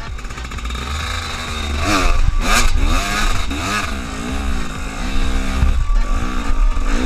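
Motorcycle engine revving up and down repeatedly, its pitch rising and falling several times over a steady low rumble.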